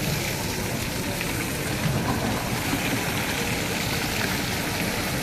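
Steady rushing noise of heavy rain and floodwater, even and unbroken throughout.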